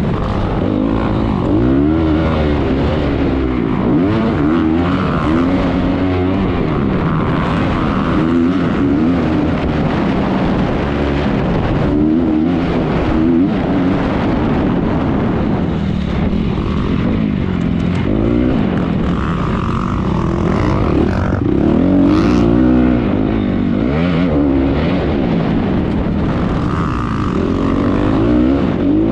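Honda 250R motocross bike engine racing around the track, the revs climbing and dropping again and again through the gears.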